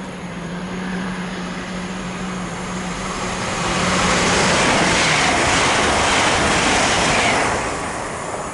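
A Great Western Railway Class 800 train passing at speed on the fast line, a rushing noise that builds, peaks in the middle and dies away near the end. Beneath it, a steady low hum stops about five seconds in.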